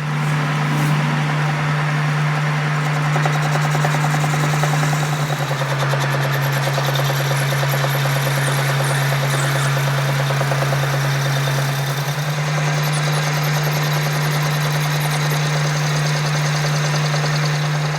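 A workshop machine running steadily, a strong constant hum with an even hiss over it, starting up right at the beginning.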